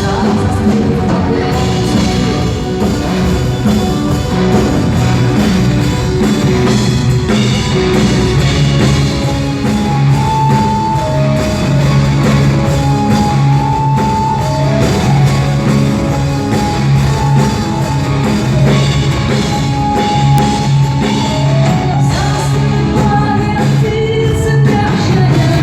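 A rock band playing live, with drums, guitar and a held, singing melody line over a steady beat.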